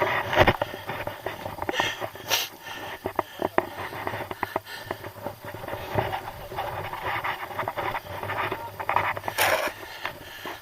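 A climber breathing hard, with scattered scrapes and clicks throughout.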